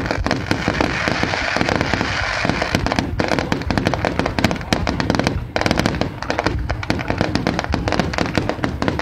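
Fireworks going off in a dense, rapid run of bangs and crackling pops, with brief dips about three seconds in and again about five and a half seconds in.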